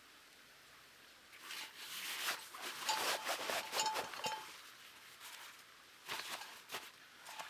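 Camping and fishing gear being handled and packed away: rustling and scraping with a few light clinks, from about a second in to near halfway, then another short burst of handling.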